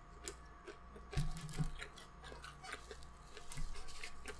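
Faint close-up chewing of KFC fried chicken, with small crackles and soft crunches of the breading, and a brief low voice-like sound about a second in.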